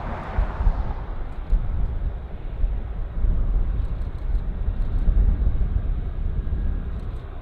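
Jet airliner noise outdoors: a rushing whoosh that fades away in the first second, leaving a steady low rumble.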